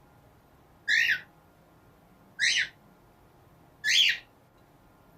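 Agitated cockatiel giving three short, high-pitched calls about a second and a half apart.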